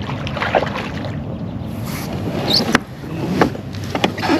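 Sounds from a kayak on open water: a steady low rumble of wind on the microphone, water sloshing around the hull, and a few sharp knocks spread across the few seconds.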